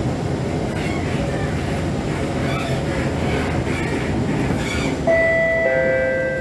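Inside a C651 metro train car: steady rumble of the train running on the track. About five seconds in, a clean electric whine from the GTO-VVVF traction inverter starts up and steps down in pitch, as the train slows for the next station.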